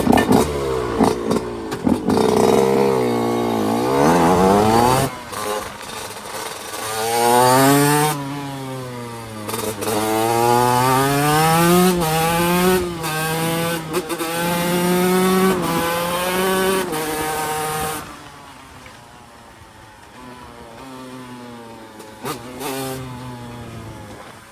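TM Racing SMR 125 two-stroke single-cylinder engine accelerating hard through the gears, its pitch climbing and dropping back with each shift. After about three-quarters of the way through it falls to a much quieter, lower running.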